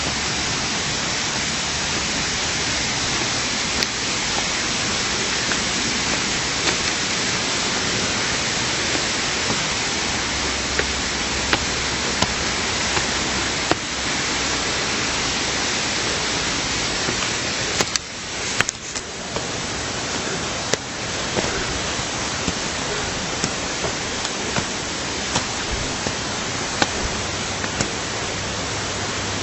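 Steady, loud rush of water in a stream gorge, dipping briefly about eighteen seconds in.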